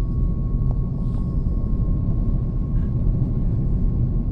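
Airliner cabin noise aboard an Airbus A330-300: a steady low rumble of engines and airflow, with a faint steady high tone running through it.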